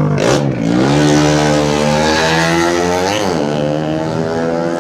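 Tuned 130cc underbone racing motorcycles running at high revs. The engine pitch dips briefly and climbs again near the start and about three seconds in.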